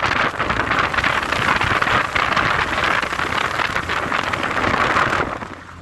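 Lada Zhiguli car driving on a rough, muddy road: steady engine and road noise that cuts off abruptly about five seconds in.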